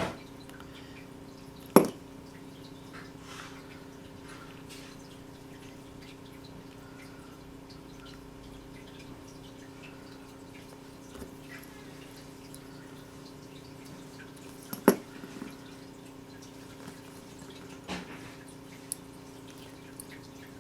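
A few sharp clicks and taps from small metal plug parts and a small screwdriver being handled while a headphone wire is fastened into a solderless 3.5 mm plug. The two loudest clicks come about two seconds in and about fifteen seconds in, over a steady low hum.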